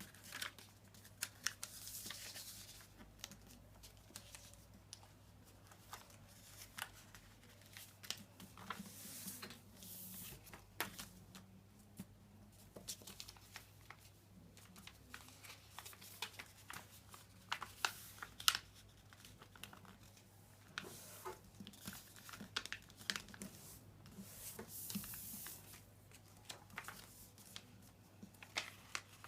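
A sheet of paper being handled and folded: crinkling and rustling with many sharp little clicks as the creases are pressed, over a faint low steady hum.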